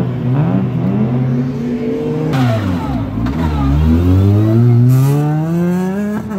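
Rally car engine revving hard. Its pitch swings up and down with the throttle, falls away as the car passes close about three seconds in, then climbs steadily as it accelerates away.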